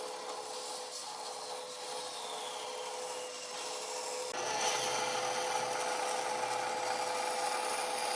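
A tool working wood: a continuous rubbing, rasping noise with a steady hum under it, which gets louder and changes about four seconds in.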